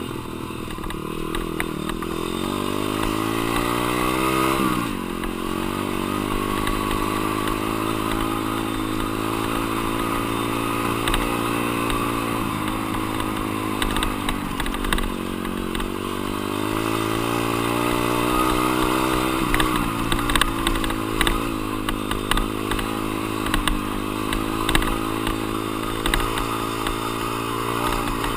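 Dirt bike engine being ridden hard: its pitch climbs for the first four to five seconds, drops sharply, then rises and falls again and again as the throttle is opened and closed.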